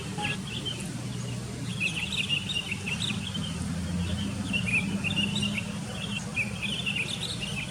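Sooty-headed bulbuls chirping and calling in quick, overlapping bursts, over a steady low hum.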